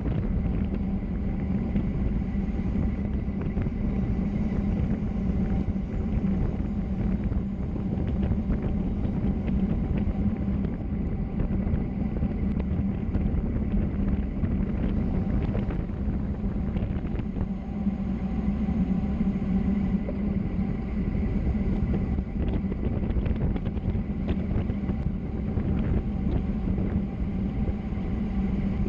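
Steady rush of wind and road noise on a fast downhill run, with a constant low hum underneath and no change in pace.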